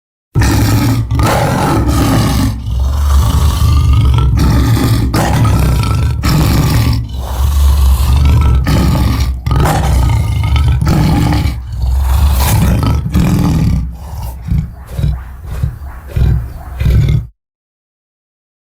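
Lion roar sound effect: a long run of loud roaring that breaks near the end into shorter separate grunts, then cuts off abruptly.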